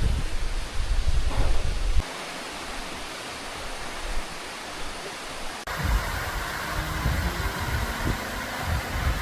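Rushing mountain-stream water, a steady even hiss, with heavy wind rumble on the microphone for the first two seconds. It cuts off abruptly about two-thirds of the way in to a different, brighter rush with low thumps and a faint steady hum.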